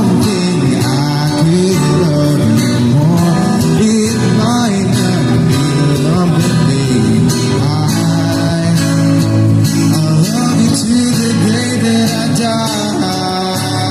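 A song being sung, with the voice gliding between held notes over steady instrumental backing.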